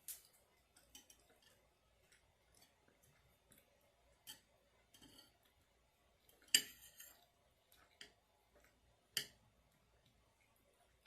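Scattered light clicks and clinks of a metal spoon against the food container while eating, the loudest about six and a half and nine seconds in.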